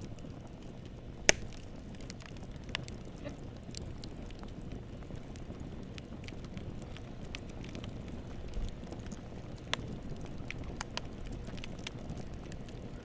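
Wood fire crackling in a fireplace: a steady low rush of flame with scattered sharp pops and snaps, one loud pop about a second in.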